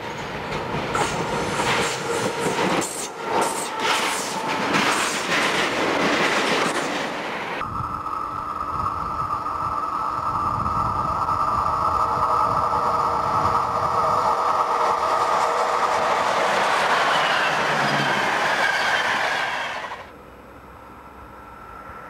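A diesel locomotive hauling tank wagons passes close by, its wheels clattering rapidly over the rail joints. It cuts off abruptly and is replaced by an approaching electric locomotive with a steady high whine under growing rail noise, which also stops suddenly near the end.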